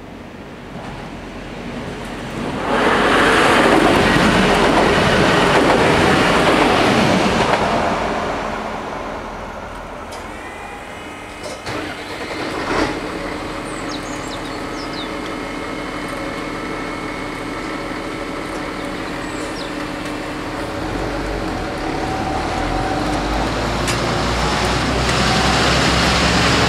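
A regional train passes over the level crossing, loud for about five seconds and then dying away. About eleven seconds in, a steady mechanical hum rises in pitch and then holds as the crossing barriers lift. Near the end, car engines rumble as traffic drives across the tracks.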